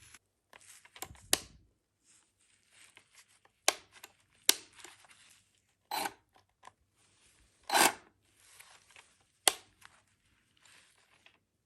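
Hands handling packaging and parts: rustling and tearing with several sharp clicks or snaps, one of them a longer scraping snap about eight seconds in.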